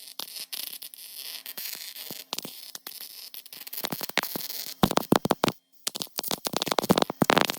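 Welder crackling and spitting in irregular runs of sharp pops while sheet-steel rust patches are welded on a car body's underside. It stops for a moment just past halfway, then starts again.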